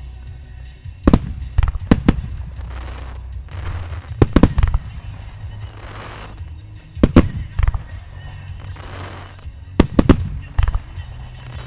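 A starmine fireworks barrage: aerial shells bursting in sharp booms, singly and in quick clusters, with stretches of hiss between the bursts. Music plays underneath for the music-synchronised show.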